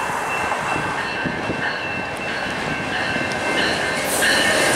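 GO Transit MP54 diesel locomotive hauling a 12-car passenger train as it approaches and rolls into the station. Engine and wheel noise grows louder and brighter about four seconds in as the locomotive draws near. A level-crossing warning bell rings throughout.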